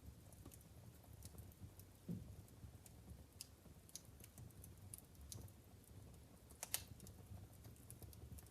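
Wood fire burning in a fireplace, crackling with scattered sharp pops over a low, soft rumble; one pop about two-thirds of the way in is the loudest.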